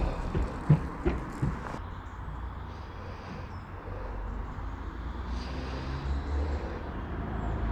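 Steady low outdoor rumble, with a few short knocks and clicks in the first two seconds.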